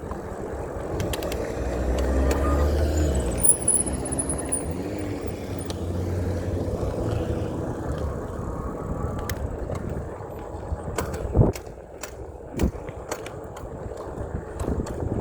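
A motor vehicle passing on the road, its sound swelling and then fading, followed by scattered clicks and a sharp knock about eleven seconds in.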